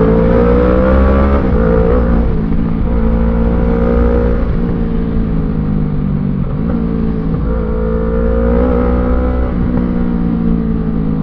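Kawasaki ER-6N's 650cc parallel-twin engine under way through a gutted exhaust with a custom midpipe. Its pitch climbs slowly and levels off, dipping briefly a few times as the throttle eases or a gear changes.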